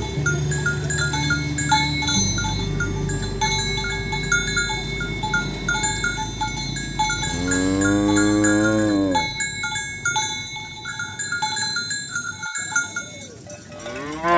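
Cowbells clinking over and over as cattle walk, with one cow giving a single long moo about halfway through that rises and then falls in pitch.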